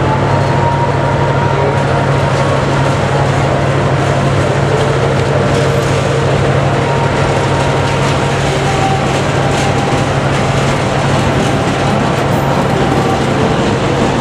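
Diesel-electric locomotive hauling passenger coaches slowly past: a steady low engine drone under the rumble of the train's wheels on the rails.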